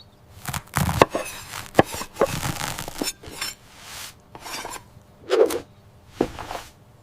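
Kitchen clatter: scattered knocks and clicks of dishes and cutlery, with scraping and rubbing in between.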